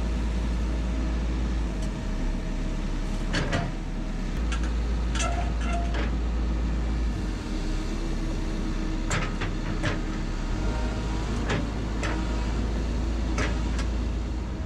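Hydraulic excavator's diesel engine running under load, its low drone shifting in level as the hydraulics work, with a series of sharp clanks and knocks from the bucket handling boulders.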